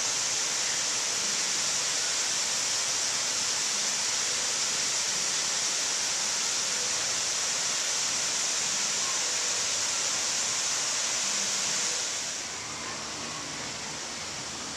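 Steady rushing noise that drops in level about twelve seconds in.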